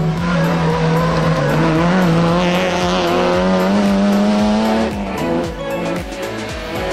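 Citroën Saxo rally car's engine held at high revs through a bend, its pitch rising slowly for about five seconds, then dropping off as it pulls away. Brief tyre squeal partway through, and background music underneath.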